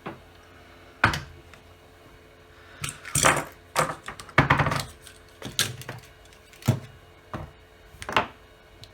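Irregular knocks and clatter of equipment and small parts being moved and set down on a workbench.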